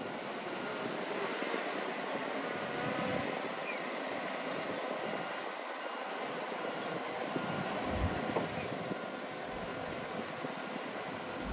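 Reversing alarm on a heavy construction vehicle beeping steadily, about two beeps a second, over the steady engine noise of earthmoving machinery.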